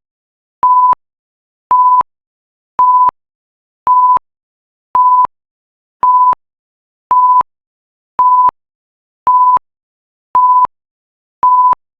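Timer alarm going off once the countdown has run out: short electronic beeps at one steady pitch, about one a second.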